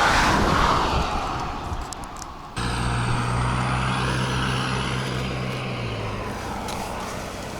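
A rough, even noise, then, a little over two seconds in, a sudden switch to a steady engine-like hum with a faint high whine that fades near the end.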